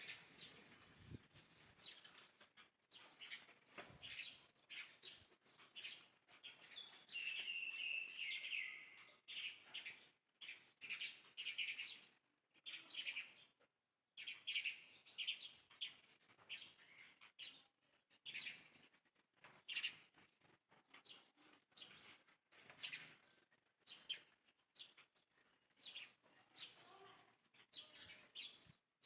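Small animal chirping in short, high-pitched calls that come on and off, with a longer falling squeal about seven to nine seconds in.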